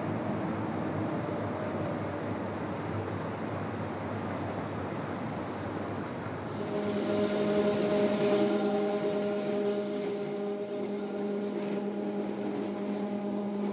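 Rhaetian Railway electric train running on the Bernina line, an even rushing rumble. About six and a half seconds in a steady hum in several tones joins it, with a hiss that swells and fades over the next few seconds.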